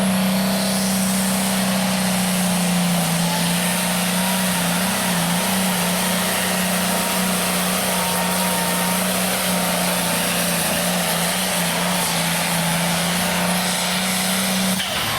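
International Harvester hot farm pulling tractor's turbocharged diesel engine running flat out under load through a pull, steady and loud, with a high turbo whine climbing at the start. The engine note cuts off suddenly near the end.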